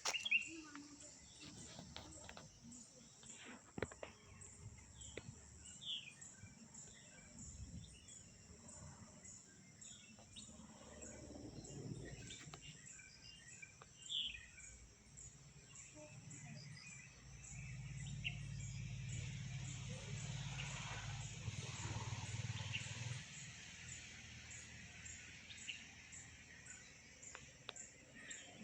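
Faint outdoor ambience: scattered short bird chirps over a steady high-pitched insect buzz that pulses regularly. A low rumble swells for several seconds past the middle and then drops away.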